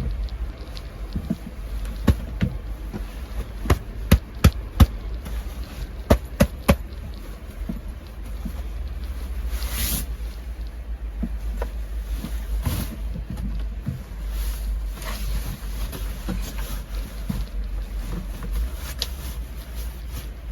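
Steady low rumble of storm wind, with a cluster of sharp knocks between about two and seven seconds in and a short rustling swish about ten seconds in.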